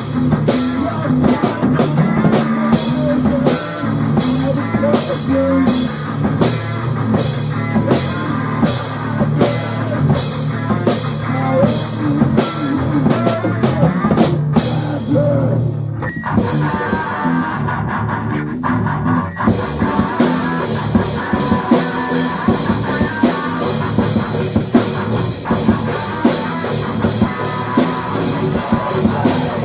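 Rock music from a band with drum kit and electric guitar, instrumental with no singing. Cymbal strokes come about twice a second, drop out for a few seconds about sixteen seconds in, then return faster.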